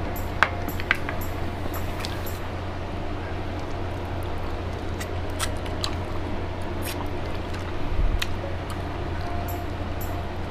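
Close-miked eating: chewing and mouth sounds as braised pork hock and rice are eaten by hand, with scattered small clicks. A steady low hum sits underneath, and a soft thump comes about eight seconds in.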